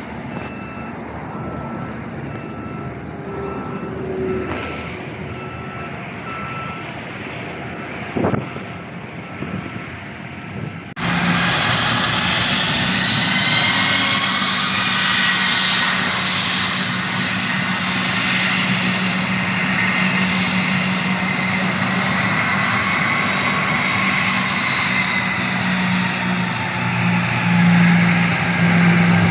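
A ground vehicle's reversing beeper sounding in even, regular beeps over airport background noise. About a third of the way in the sound switches abruptly to loud, steady aircraft engine noise, with a low hum and whining tones that waver in pitch.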